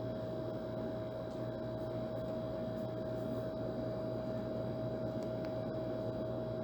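Old air conditioner running steadily: a constant hum with one clear mid-pitched tone over a low rush of air, unchanging.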